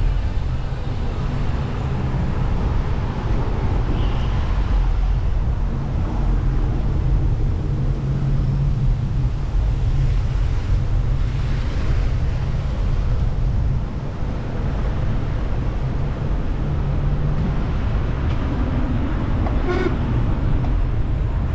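Wind buffeting the microphone of a moving bicycle, a steady low rumble, over city street traffic. There is a brief sharp sound near the end.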